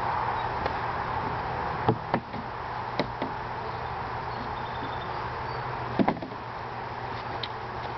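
Hollow wooden knocks of beehive frames and boxes being handled: two close knocks about 2 s in, one about 3 s in, and another close pair about 6 s in. Between them runs a steady hum of honey bees buzzing in the open hive.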